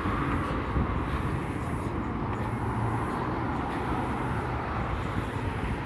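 Steady noise of city street traffic, with no single event standing out.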